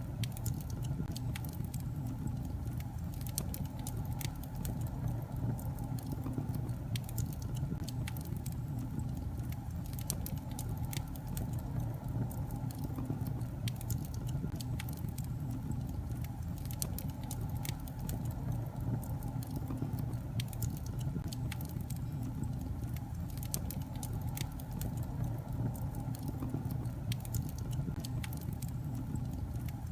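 Wood fire burning in a fireplace: a steady low rumble with frequent small crackles and pops from the burning logs.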